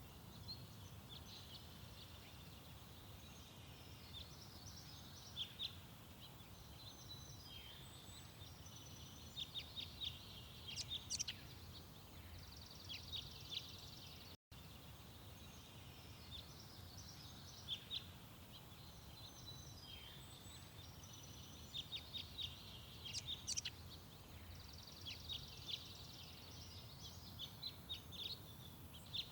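Small songbirds chirping and twittering in short, scattered high calls over a steady low background rumble. The sound drops out for an instant about halfway through.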